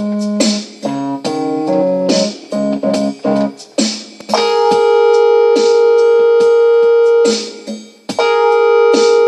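Instrumental keyboard music: a run of short piano-like notes, then from about four seconds in a long held chord that drops out briefly and comes back.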